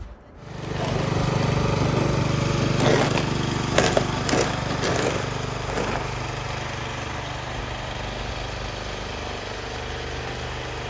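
An engine starts up about half a second in and runs steadily, with a few short knocks or scrapes between about three and six seconds in.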